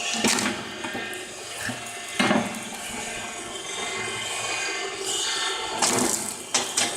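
Homemade electric wood splitter running, its motor and gearbox turning a crankshaft that drives a splitting wedge into logs. A steady mechanical whirr is broken by a few sharp knocks and cracks as the wedge strikes and splits the wood, the loudest about two seconds in.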